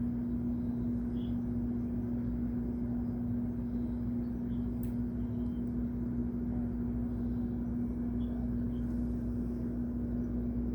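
A steady low mechanical hum, holding one pitch without change, like a motor or engine running.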